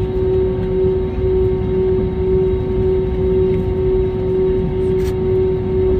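Steady cabin noise of a jet airliner after landing: a low rumble of engines and air systems with a constant hum. A single short click about five seconds in.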